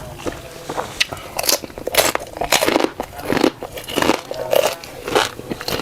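Close-miked eating: crunchy bites and chewing, a quick run of crackling crunches.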